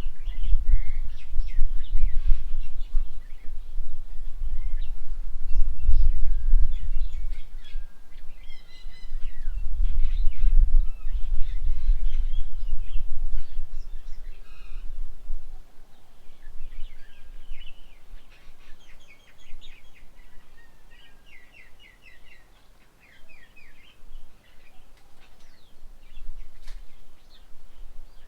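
Several birds chirping and calling in short, repeated notes, over a low rumble that is heavy through the first half and dies away about halfway through.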